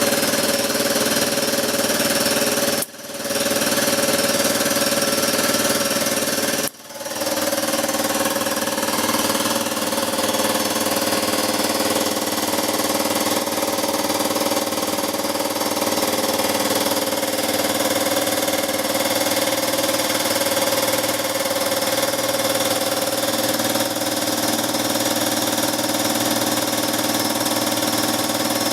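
Electric angle grinder running steadily as it grinds down tack welds on a steel swing arm, with a steady whine and a hiss of grinding. It cuts out briefly twice, about three and seven seconds in.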